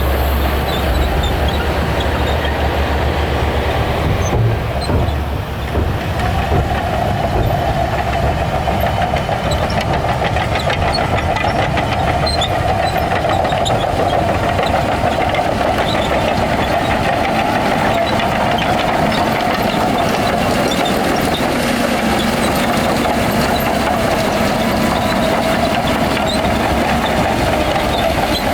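Shantui crawler bulldozer at work: its diesel engine running under load with the steel tracks clanking and rattling continuously. A low engine hum is strongest at the start, and a higher, grinding band comes in after about six seconds.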